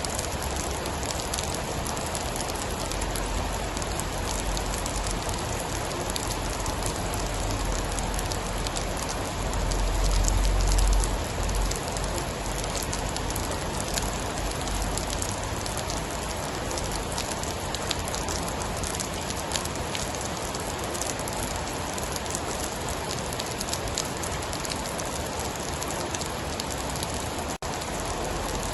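Steady heavy rain pattering on a surface, with a low rumble of thunder that swells about ten seconds in and fades out shortly after.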